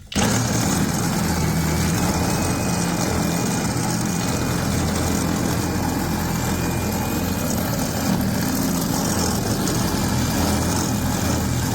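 Power drill with a 1/2-inch bit cutting in suddenly and running steadily under load, boring into a lock whose cylinder and pins are already drilled out but which is still stuck.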